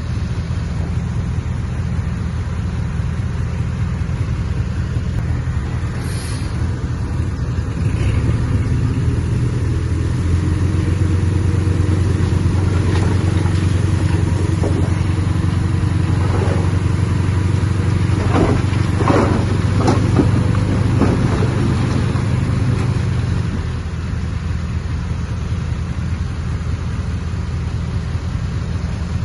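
Heavy diesel earthmoving machinery running with a steady low rumble. The engine grows louder about a quarter of the way in and drops back near the end, with a few brief higher-pitched squeals a little past the middle.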